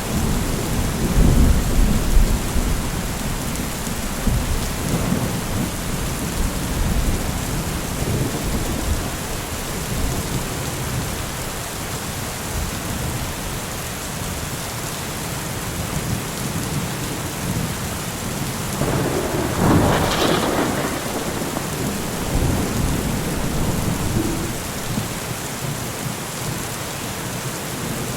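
Steady rain falling in a thunderstorm, with low rumbles of thunder near the start and a louder swell about two-thirds of the way through.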